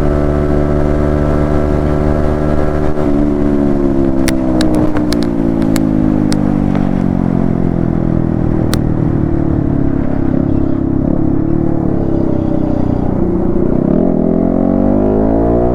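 Yamaha MT-15 V2's single-cylinder engine on the move: it holds steady revs for about three seconds, then the revs fall slowly for around ten seconds as the bike slows, with a few sharp clicks along the way, before it accelerates again near the end.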